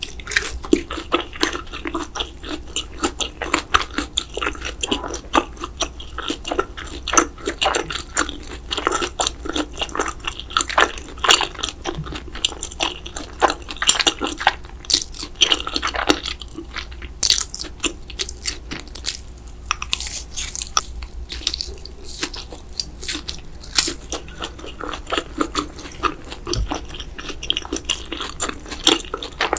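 A person chewing and biting cheesy noodles and breaded mozzarella sticks, a continuous run of wet smacks and crunchy bites.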